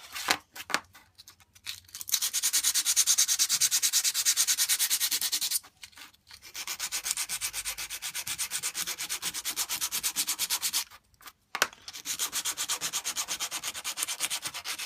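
Hand sanding of knife-handle parts: fast, even back-and-forth rasping strokes in three runs separated by short pauses.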